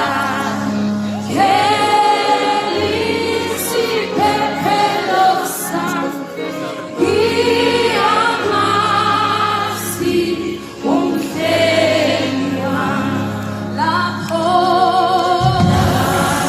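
A choir singing a gospel song with accompaniment, voices held in long sung phrases.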